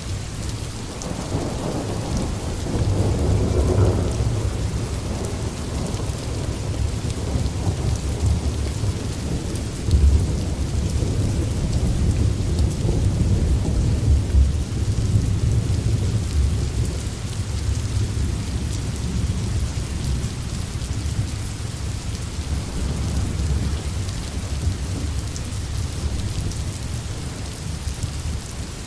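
Thunderstorm: steady heavy rain with deep rolling thunder. The thunder swells a couple of seconds in, gives a sharper clap about ten seconds in, and eases off over the last third while the rain keeps falling.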